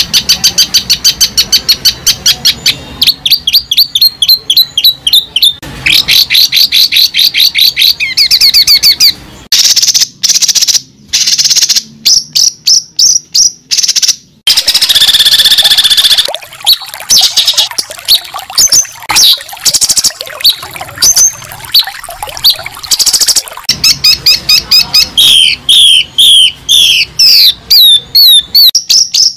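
Bird calls: fast runs of high repeated chirps and trills, changing from one pattern to another every few seconds, with sudden breaks between them.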